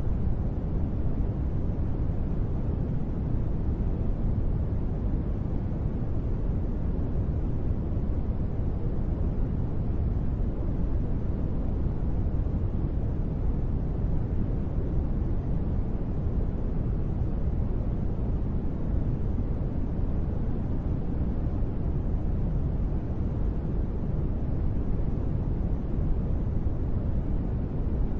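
Steady, deep rushing noise with no changes, weighted toward low rumble with little high hiss: a continuous sleep-noise track billed as gentle rain.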